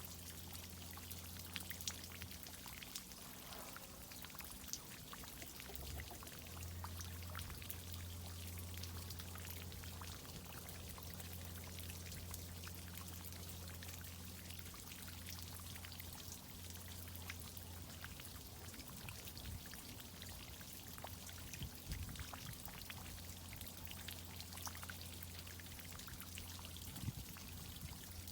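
Water from a tree-watering irrigation system pouring and pattering, with many small droplet ticks over a steady low hum.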